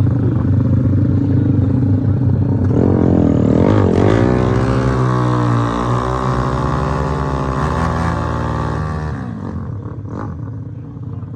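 Drag-racing motorcycle engines running at the line, then revving up and accelerating hard, with the pitch climbing and dropping through several gear changes before the sound fades near the end.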